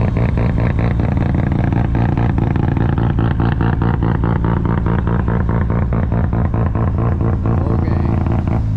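Car engine and exhaust running loud and hard under sustained power, with a rapid, even pulsing throughout.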